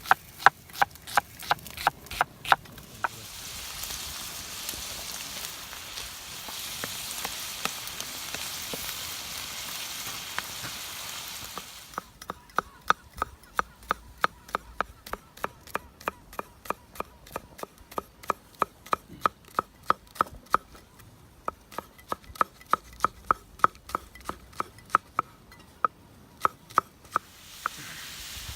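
Meat searing on a steel sac pan, sizzling steadily, with a metal spatula striking the pan about three times a second while the meat is turned and chopped. The strikes stop for several seconds early on, leaving only the sizzle, then start again and run on until near the end.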